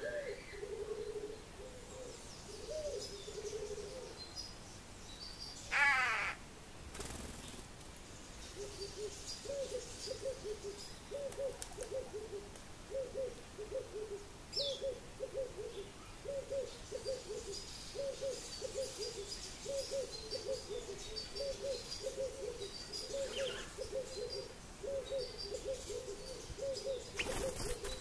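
A bird calling in a long, steady series of short low notes, about one and a half a second. Small birds chirp faintly higher up, and one louder short call comes about six seconds in.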